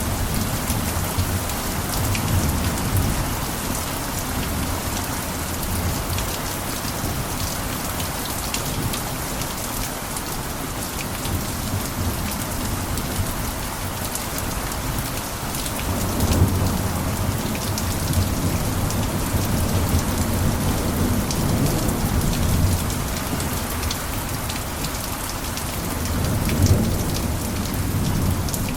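Steady rain on a roof, with fine drop ticks over an even hiss. Low rolls of thunder rumble under it near the start and again from about halfway until near the end.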